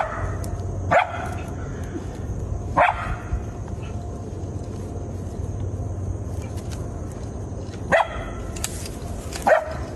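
Coyote giving short barks, five in all, spaced unevenly, over a steady low rumble.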